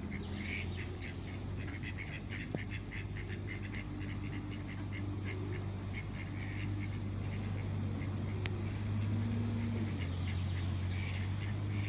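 A fast series of short animal calls, several a second, over a steady low hum.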